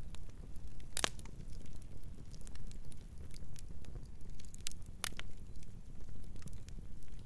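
Wood fire crackling: a low steady rumble of burning with scattered sharp pops and snaps, the loudest pops about a second in and around five seconds in.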